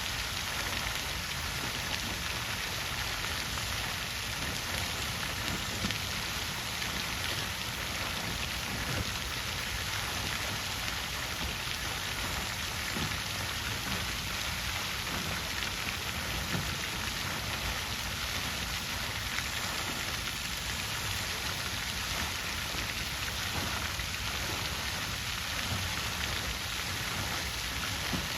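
Water fountain splashing steadily, a continuous even spatter of falling water.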